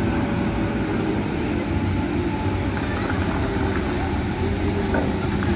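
Wheel loader's diesel engine running steadily under work, its pitch drifting slightly up and down.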